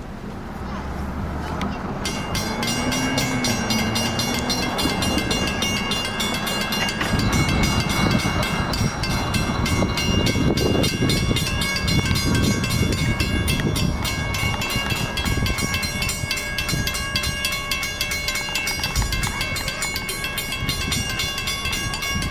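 Train passing close by: wheels rumbling and rattling on the rail, loudest midway, with a steady high whine over it.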